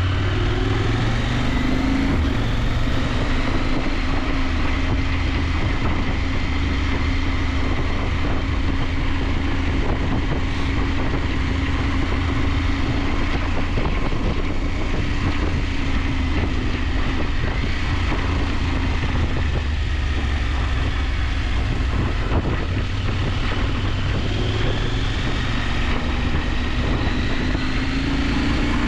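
KTM 890 Adventure's parallel-twin engine running while riding, under a steady rush of wind. The engine note rises near the start and again near the end as the bike speeds up.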